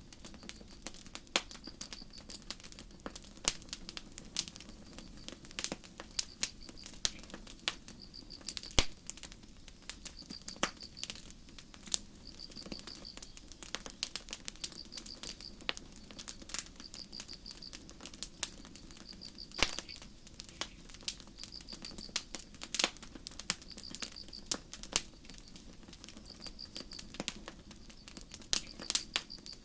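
Campfire crackling with irregular sharp pops, over crickets chirping in short pulsed chirps that repeat every second or two.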